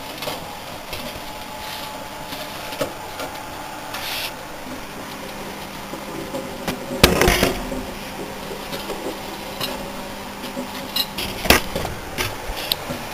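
Microwave oven running with a steady hum while a DVD player burns and arcs inside it, giving scattered sharp crackles and pops. Two louder crackling bursts stand out, about seven seconds in and again about four seconds later.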